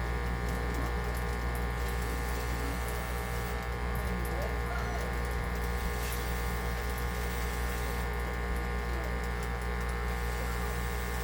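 Powered hot air rework station running, with a steady, even hum and buzz.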